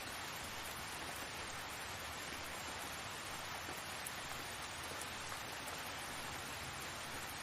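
Steady rain falling, an even hiss without distinct drops or changes.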